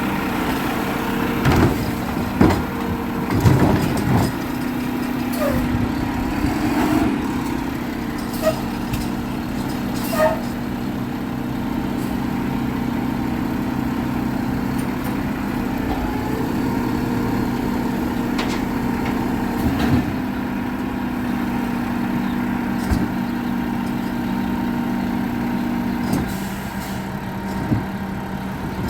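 Garbage truck's diesel engine running steadily, with several clunks and knocks in the first few seconds and another partway through. The engine hum drops near the end, and a loud thump follows.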